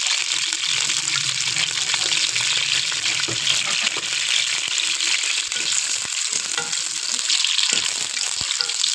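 Potato slices sizzling and crackling steadily as they fry in hot oil.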